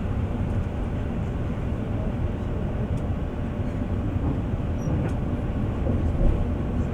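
Bus in motion, heard from inside the cabin: a steady low rumble of engine and road noise, with one brief low bump near the end.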